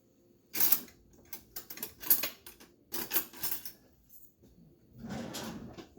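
Metal kitchen utensils clattering and clinking in quick clusters of rattles, someone rummaging through a utensil drawer. A softer rustling shuffle follows near the end.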